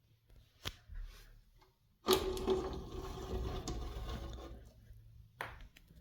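Mechanical sounds from handling a vintage KDK all-metal electric fan. There is a click about a second in, then a sudden mechanical noise lasting about three seconds that fades away, and another click near the end.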